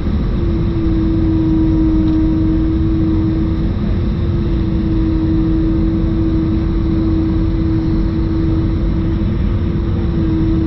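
Airbus A320-214's CFM56 jet engines heard from inside the cabin during descent: a deep, steady rumble with a strong, steady howling tone on top. The tone comes from the left engine, which howled for several minutes in climb and again in descent.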